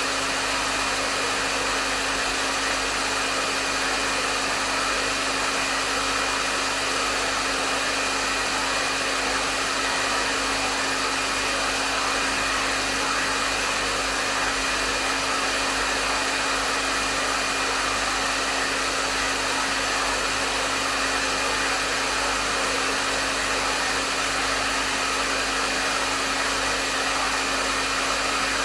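Hair dryer running steadily, a constant rush of blown air with a steady motor hum under it.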